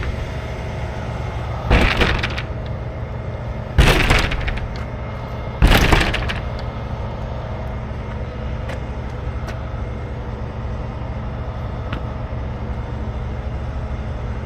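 A truck engine running steadily under three loud, sharp, sudden noises about two seconds apart, each dying away within a second.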